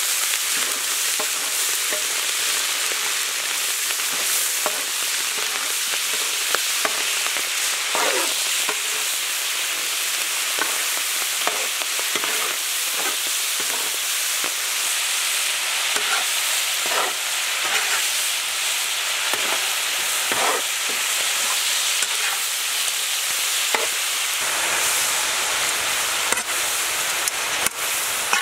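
A large batch of prawns sizzling in hot oil in a big black wok, stirred with a steel ladle that knocks and scrapes against the pan now and then.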